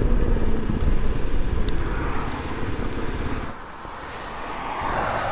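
Kawasaki KLX 300's single-cylinder engine and wind rumble fading as the motorcycle slows to pull over. The sound drops off sharply about three and a half seconds in as the bike comes to a stop.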